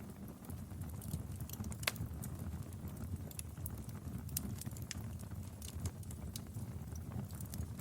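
Wood fire burning in a fireplace: irregular sharp crackles and pops over a low, steady rumble of the flames, with one louder pop about two seconds in.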